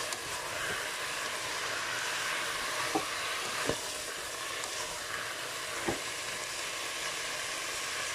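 Pork, carrot and onion sizzling steadily in oil in a multicooker bowl set to frying, stirred with a spatula that knocks against the bowl a few times.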